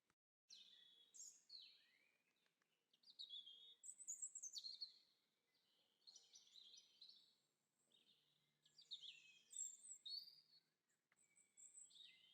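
Faint birdsong: several small birds chirping and trilling in quick, high phrases, with a short dropout in the first half second.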